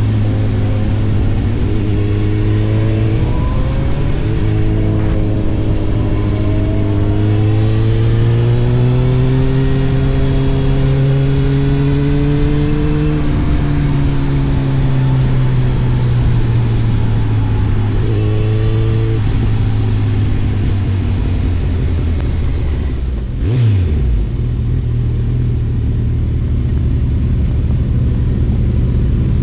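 Motorcycle engine running under way at steady cruising, its pitch slowly rising and then easing back down. About 23 seconds in, the pitch drops sharply for a moment before the engine settles again.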